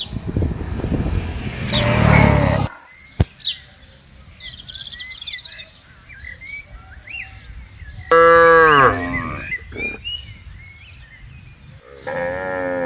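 Cattle mooing: a long low moo over the first couple of seconds, a loud moo falling in pitch about eight seconds in, and another moo starting near the end. Faint bird chirps fill the gaps between them.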